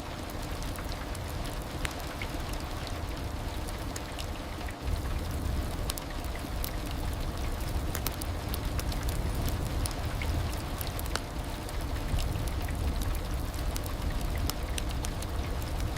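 Heavy rain falling steadily: a low rumble under a dense spatter of sharp drop ticks.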